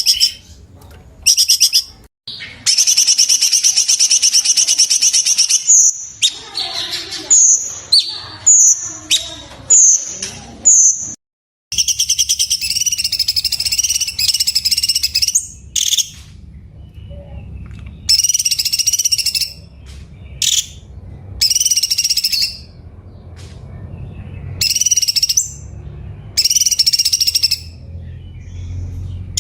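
Cucak cungkok singing: loud, rapid trilled calls in bursts of one to two seconds with pauses between, and a run of short upslurred notes in the middle. A faint low hum lies under the later part.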